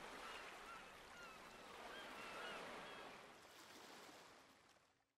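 Faint outdoor ambience: a steady hiss with many short bird calls, fading out near the end.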